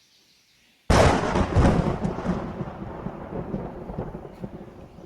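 A close thunderclap: a sudden loud crack about a second in, followed by a rumble that rolls and slowly fades.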